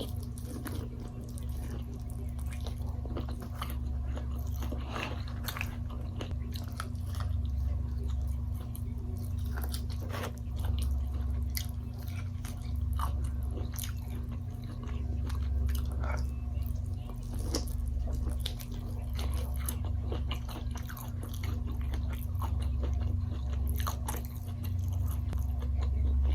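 A person chewing and biting food close to the microphone, with many short wet clicks and crunches at an irregular pace, over a steady low hum.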